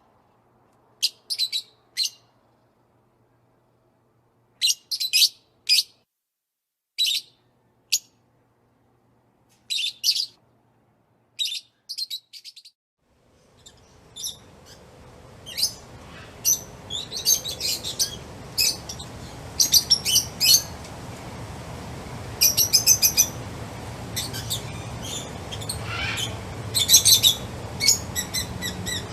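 Small birds chirping: for the first half, short separate high chirps in clusters of two or three with silence between them. About halfway through, a busier chorus of many rapid chirps starts over a steady background hiss.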